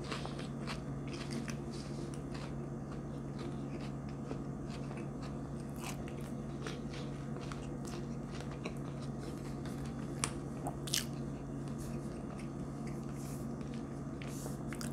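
A person chewing a cracker topped with sardine, Swiss cheese and onion close to the microphone: irregular crisp crunches and clicks over a steady low hum.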